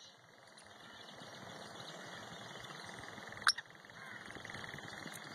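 Faint, steady outdoor background noise that slowly grows louder, with one brief sharp chirp-like sound about three and a half seconds in.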